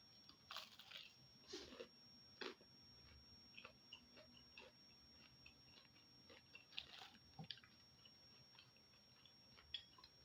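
Close-up, faint mouth sounds of someone eating bakso meatballs mixed with rice: soft wet clicks and smacks of chewing, with a few louder crackly bites in the first few seconds and again about 7 seconds in.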